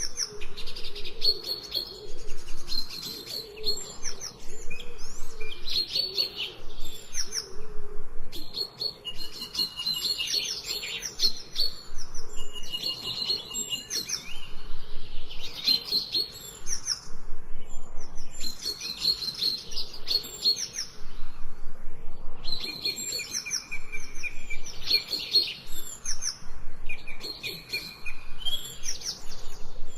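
Songbirds singing and chirping in quick, high-pitched phrases of a second or two, repeating with short pauses between them.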